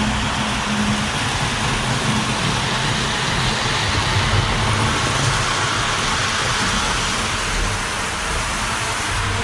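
Model steam locomotive running on the layout track: a steady rolling and whirring noise of its wheels and motor.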